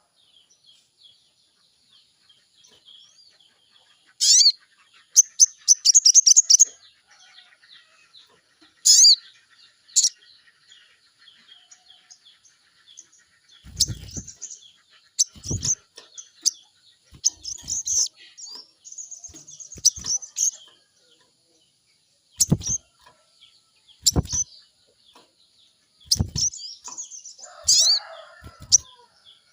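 Sogon bird calling: sharp high chirps and quick trills of repeated notes, in scattered bouts. A few dull thumps come in among the calls in the middle of the stretch.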